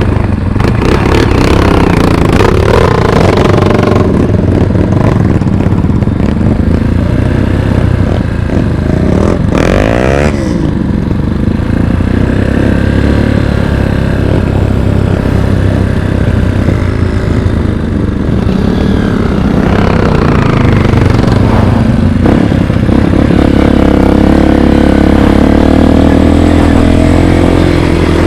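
Dirt bike engine running under load on a trail ride, its pitch rising and falling as the throttle is worked. There is a quick rev about ten seconds in, and it runs louder and steadier near the end.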